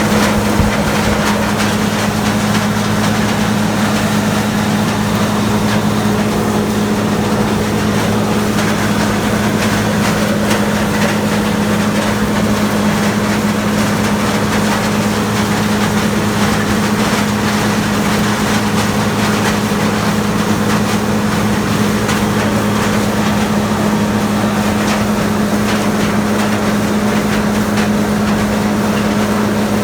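Farm machine's engine running steadily at a constant speed, an even drone that does not change.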